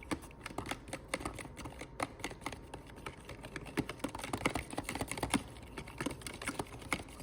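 A whisk beating a sauce of soy sauce, hoisin and spices in a bowl: the wires click rapidly and irregularly against the bowl, several times a second, until the whisking stops at the end.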